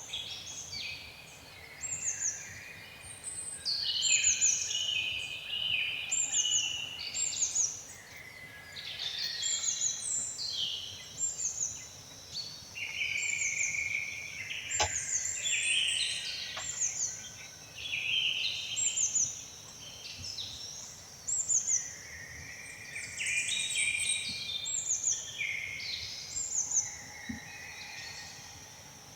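Birdsong: several small birds chirping and singing together, with many overlapping short descending notes and trills repeating throughout. Two faint clicks come about halfway through.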